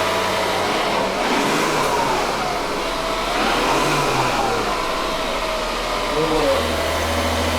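Car engine running with a steady low hum that drops away about a second in and comes back near the end, under faint voices.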